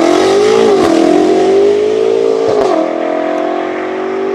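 A modified car's engine accelerating hard through the gears: the pitch climbs, then drops at gear changes about a second in and about two and a half seconds in, with a short sharp crack at the second shift.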